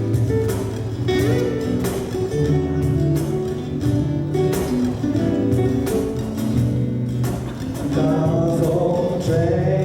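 Live band playing a song: strummed guitars over bass, with regular percussive hits.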